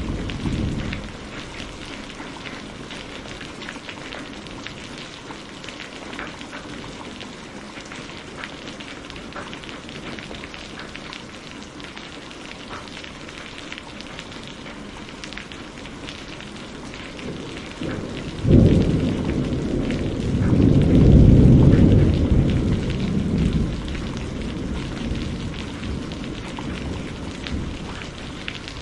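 Steady rain falling, with thunder: a sudden low rumble about two-thirds of the way through that swells and rolls on for several seconds before fading.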